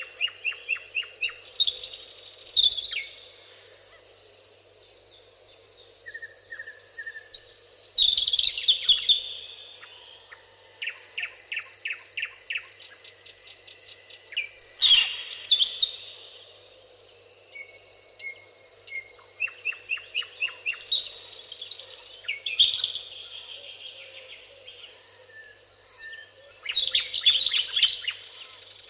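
Several songbirds singing in a meadow: a louder phrase about every six seconds, with rapid runs of short chirps between them, over a steady high-pitched whine.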